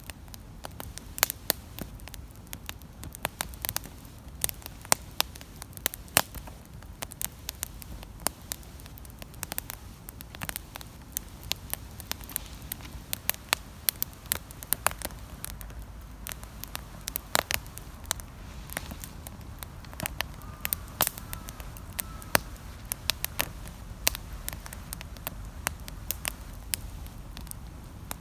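Campfire crackling: burning wood snapping and popping in sharp, irregular clicks over a low, steady rumble.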